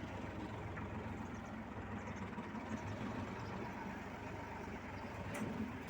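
Heavy vehicle engine running steadily at idle, with a single sharp click near the end.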